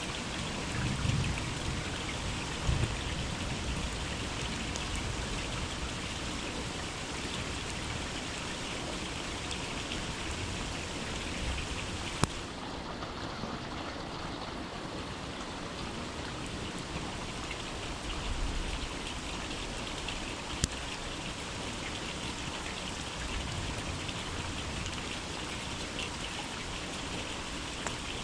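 Steady rain falling in a forest, an even hiss of drops with a couple of sharp single taps, one about halfway through and another a few seconds later.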